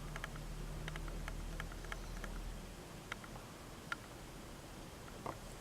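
Scattered light clicks and ticks from handling a carded diecast model car in its plastic blister pack, over a faint low hum that fades out about halfway through.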